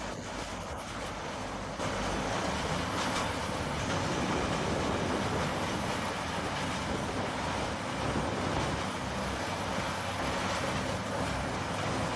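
Fendt 942 Vario tractor and Biber 92 MH wood chipper running steadily while chipping whole trees; the noise steps up and grows louder about two seconds in.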